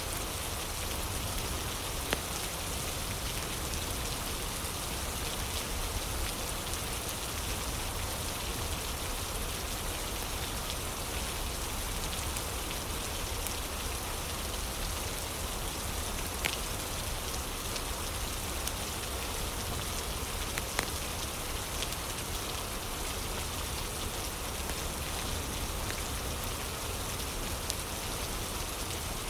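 Steady rain falling, an even hiss, with a few faint sharp crackles from a fire.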